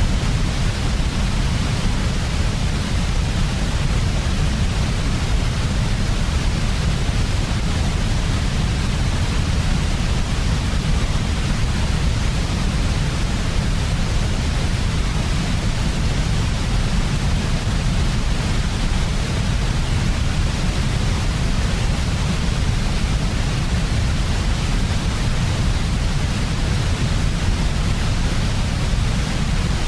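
Continuous generated white noise for sleep: an unchanging hiss with a stronger low rumble beneath it.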